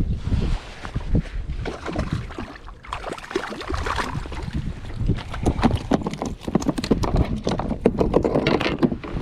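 Irregular knocks and clicks on a fishing kayak, coming thick and fast after about three seconds, over wind rumbling on the microphone.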